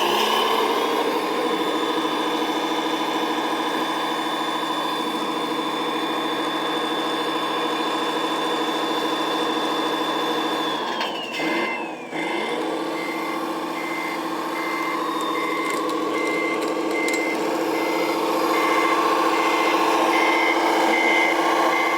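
RC model truck's sound module playing a diesel truck engine running steadily, with a high whine that glides down and stops about halfway through. Then a reversing beeper starts, beeping evenly a little more than once a second as the truck backs up.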